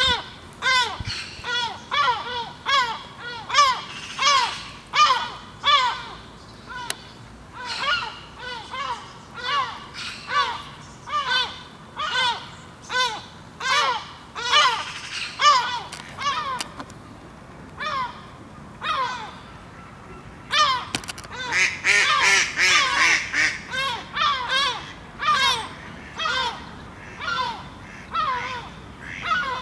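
Birds giving harsh alarm calls over and over, about two a second, as they mob a perched hawk. The calling thickens into a louder, overlapping chorus about three-quarters of the way through.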